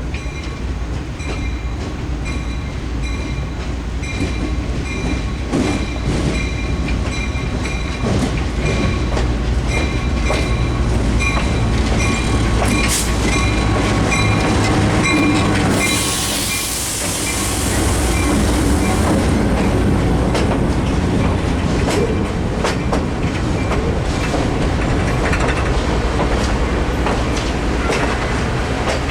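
Dinner train rolling past with a steady low rumble and clickety-clack of wheels on rail joints, while a crossing bell dings in a steady repeating rhythm through the first half. About sixteen seconds in, a loud hiss of air lasts about three seconds.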